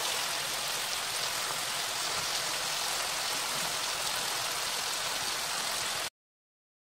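Chicken pieces sizzling in hot oil in a wok, a steady hiss that stops abruptly about six seconds in.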